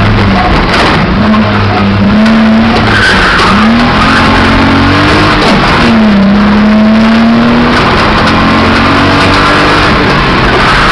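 BMW E28 rally car engine heard from inside the cabin, climbing in pitch under load and dropping sharply twice, about three and a half and six seconds in, as it shifts up. It is running rough with one or two of its cylinders dead, under a loud rush of road noise.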